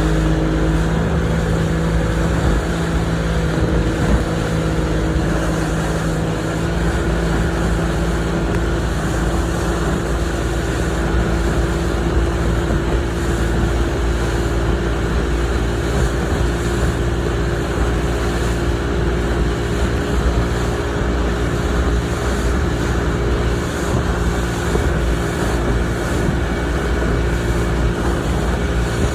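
Boat motor running steadily under way, with the rush of water and wind over it; the engine note steps up a little about six seconds in.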